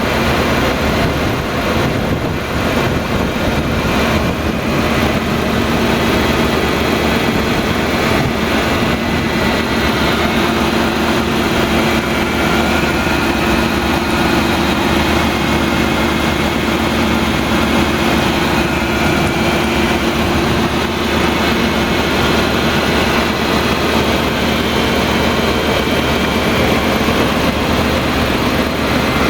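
1999 Ford Ranger's 3.0-litre Vulcan V6 engine idling steadily.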